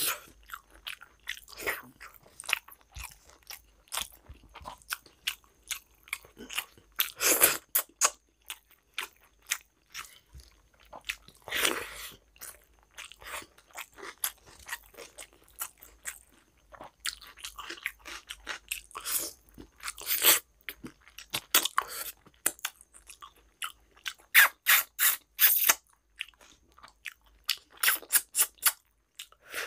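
Close-miked chewing and mouth sounds of a person eating rice and mutton curry: irregular wet clicks and smacks coming in bunches, with the loudest bunches near the middle and toward the end.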